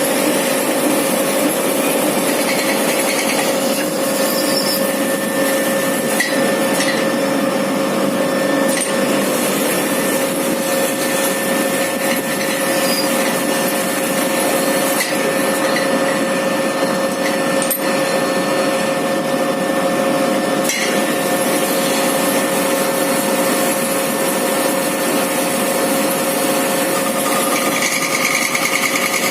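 Lathe turning a crankshaft with a carbide CNMG insert: a steady machining noise with a held tone running under it and a few faint ticks.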